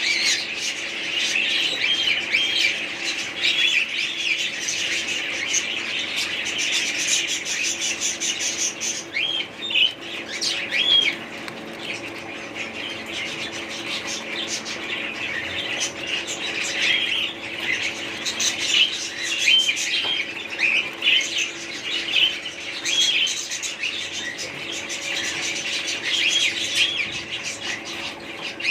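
Many small parrots chattering together: a dense, continuous stream of short chirps and squawks.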